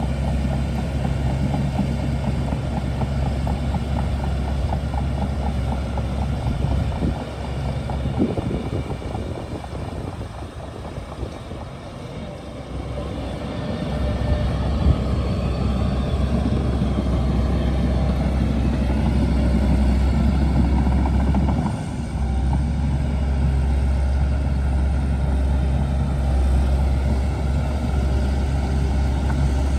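Shantui DH17C2 bulldozer's diesel engine running with a steady low drone; it eases off for several seconds partway through, then picks back up.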